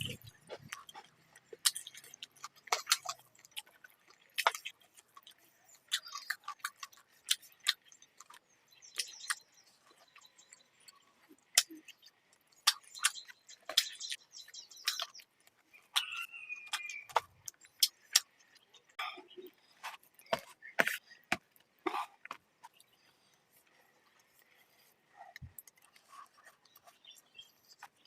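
Close-miked eating sounds of a person eating chicken curry and rice: irregular chewing, smacking and sharp mouth clicks, with brief quieter pauses.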